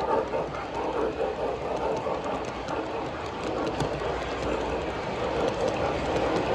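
Model train running along a show layout, its wheels clicking over the track, with a steady hall din behind it.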